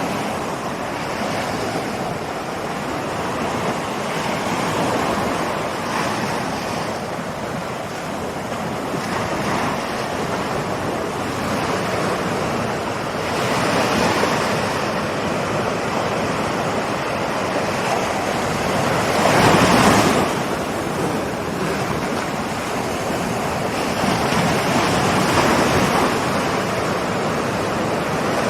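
Ocean waves rolling in and breaking on the shore: a continuous wash that swells and ebbs every few seconds, with the biggest surge about two-thirds of the way through.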